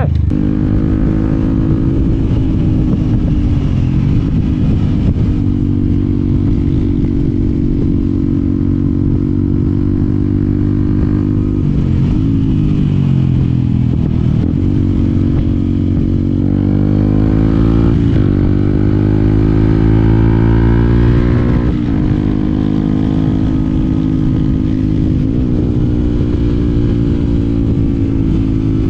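Yamaha WR125X's single-cylinder four-stroke engine running. Its pitch holds steady for a while, then drops, and climbs several times with short dips, as the throttle opens and closes and gears change.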